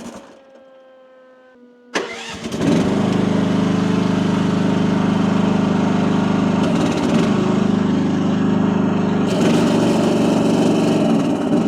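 Small mini excavator engine dying under hydraulic load as the bucket is deadheaded against the relief valve, then cranked and restarted about two seconds in and running steadily. Stalling like this means the relief pressure is still set too high for the engine.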